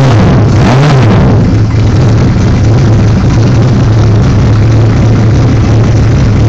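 1978 Suzuki GS1000's air-cooled inline-four, fitted with a Magnum turbo kit, running loud. It blips the throttle twice in the first second or so, then settles to a steady idle.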